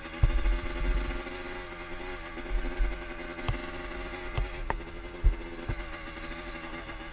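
Motorcycle engine running at a steady, slightly wavering speed, with gusts of wind rumbling on the microphone and a few sharp knocks.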